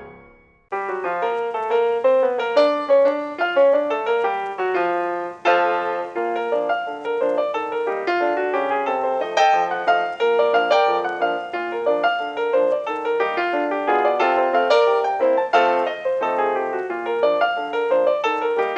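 Solo piano background music in a lively ragtime-like run of quick notes, starting anew just under a second in after a short gap.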